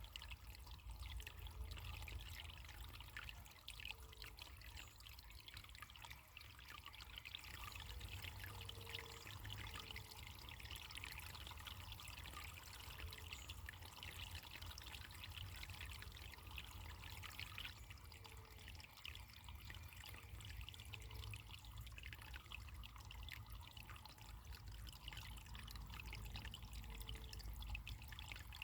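Running water trickling and splashing steadily and faintly, over a low rumble.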